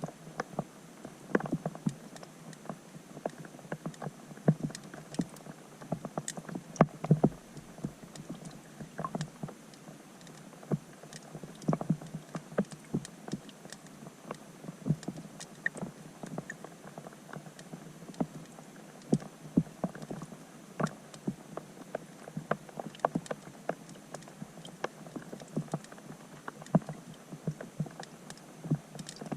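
Rain falling on a pond, heard underwater through a GoPro Hero 5 Black's housing: an irregular scatter of sharp little clicks and taps from drops striking the surface, several a second, over a faint hiss.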